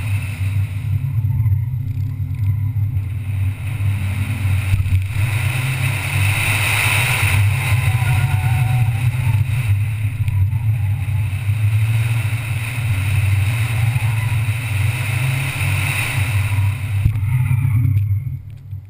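Ford Fiesta ST's 1.6-litre turbocharged four-cylinder engine running under load as the car is driven hard, with steady road and wind noise. The sound falls away in the last second.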